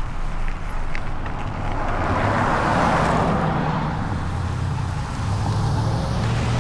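A car drives past: its tyre and road noise swells about two seconds in and fades after the middle, over a steady low rumble.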